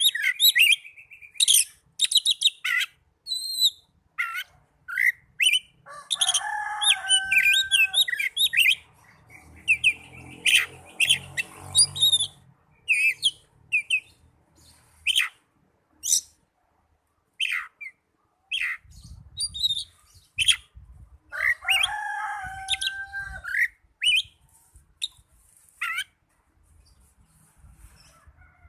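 Oriental magpie-robin (kacer) song: a fast, varied run of high whistles and chirps, broken twice by a longer, lower call.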